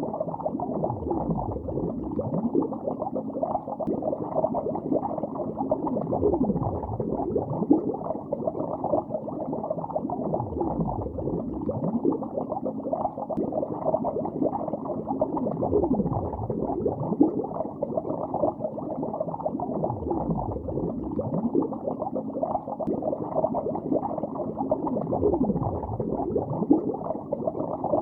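Continuous underwater bubbling recorded beneath a lake's surface, a dense low gurgle of many small bubbles with occasional deeper swooping bubble sounds every few seconds.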